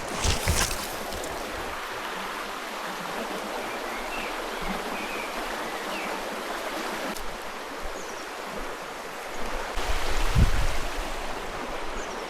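River water rushing steadily over the rocks near the Ouzoud springs. A brief low rumble comes about ten seconds in.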